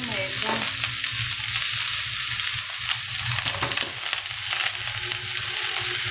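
Chopped baby cauliflower stems and greens sizzling steadily as they stir-fry in a hot stainless steel pot, with scattered crackles and the stirring of a wooden utensil.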